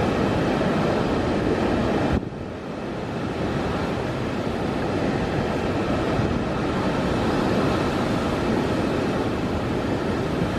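Typhoon-force wind buffeting the microphone over heavy surf. The noise is loud and rough throughout, dips sharply about two seconds in, then builds back up.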